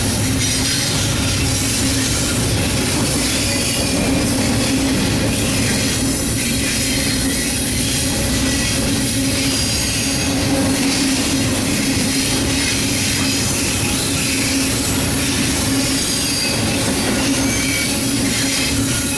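A train rolling past on steel rails: a steady rumble of wheels and cars, broken by short high-pitched wheel squeals.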